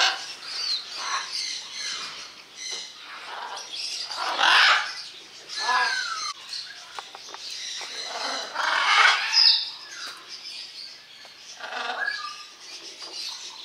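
Birds calling, a string of harsh squawks and chirps, the loudest about four and a half and nine seconds in, with a clear falling whistle about six seconds in.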